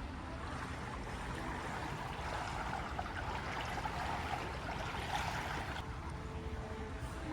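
Steady rush of moving water, a hiss without rhythm that thins a little about six seconds in.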